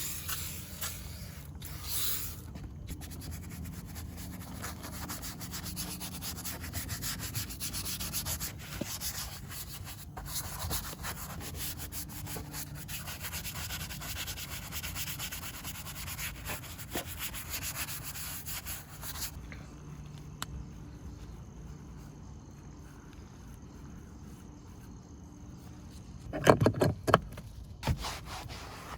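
Repeated scrubbing and rubbing strokes, a brush or cloth worked over a surface during car detailing. The scrubbing stops about two-thirds of the way in, and a few loud knocks come near the end.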